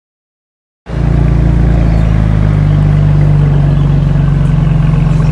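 Silence for about the first second, then the BMW M4 Coupé's twin-turbo straight-six engine comes in suddenly and runs steadily at a low, even pitch.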